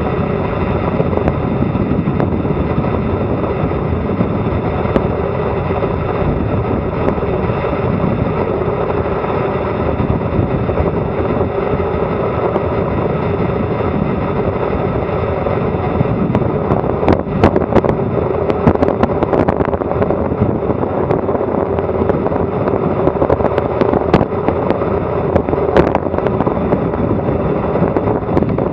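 Wind buffeting an action camera's microphone, mixed with tyre noise, during a fast bicycle descent: a loud, steady rush. From about halfway through come scattered sharp clicks and knocks, like the bike jolting over rough road.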